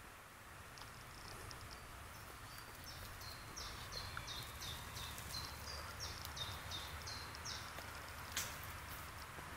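A small songbird singing a long run of short, high notes, with a faint low rumble underneath and a single sharp click about eight seconds in.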